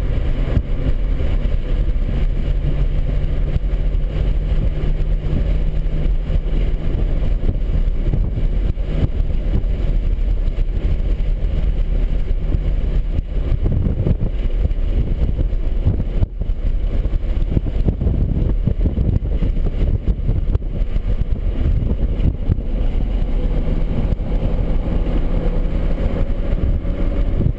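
BMW 135i's turbocharged inline-six running at steady, fairly low revs, heard from inside the car with heavy road and wind rumble. The engine's steady drone sinks into the rumble about halfway through and comes back near the end.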